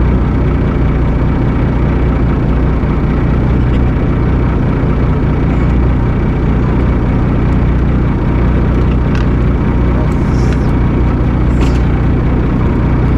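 A fishing boat's engine running at a steady speed with a loud, even drone. A few faint ticks sound near the end.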